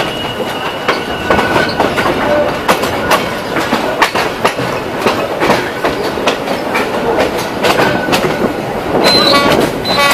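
Narayanganj Express local train running along the track, its wheels clattering over rail joints in a stream of irregular clicks and knocks over a steady rumble, with faint wheel squeal now and then.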